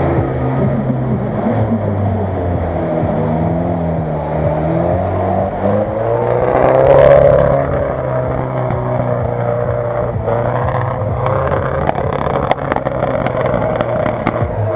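Off-road 4x4's engine working hard through a deep mud pit, its pitch rising and falling as it is revved, loudest about halfway through.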